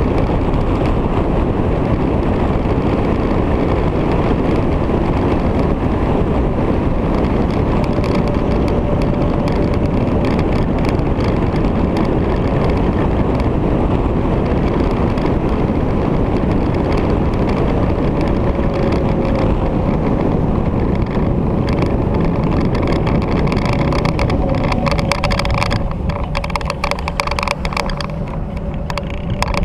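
Victory motorcycle being ridden at road speed: engine running under heavy wind rush on the microphone, with a faint tone that shifts in pitch. The noise eases slightly after about 26 seconds.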